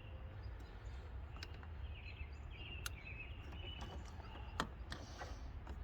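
Outdoor ambience of small birds chirping over a steady low rumble, with several sharp clicks and taps from handling the LED headlight bulb in its plastic housing.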